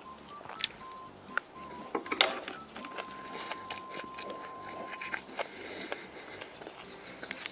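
Close-miked eating: biting and chewing food, with a few sharp crunching clicks in the first couple of seconds.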